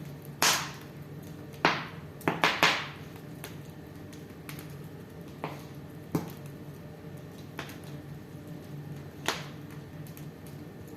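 Wood fire in a fireplace crackling, with irregular sharp pops: several in quick succession in the first three seconds, then only a few.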